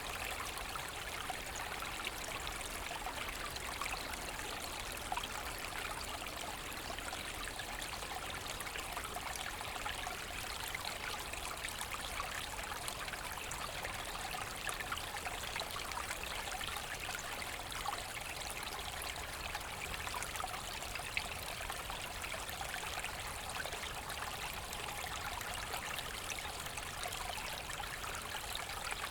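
Forest brook flowing steadily, water trickling and splashing over stones.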